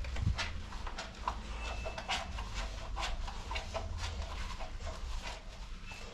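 Irregular light clicks and knocks, several a second, over a steady low rumble.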